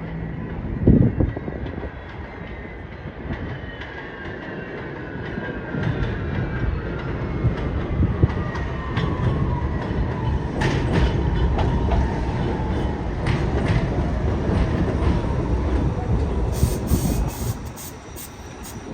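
New York City subway train running on rail, with wheels clattering over the rail joints and a rumble throughout, a sharp thump about a second in, and a whine that falls slowly in pitch as the train slows. Clicks come around the middle and near the end.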